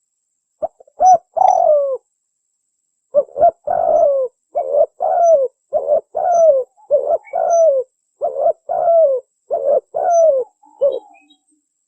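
Spotted dove (tekukur) cooing: short phrases of low coos, many ending in a falling slur, with a brief pause about two seconds in and the phrases trailing off near the end.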